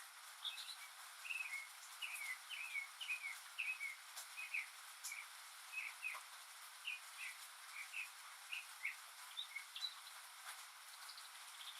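Northern mockingbird singing a run of short, sliding chirps, about two a second, some notes repeated in turn, over a steady hiss of rain.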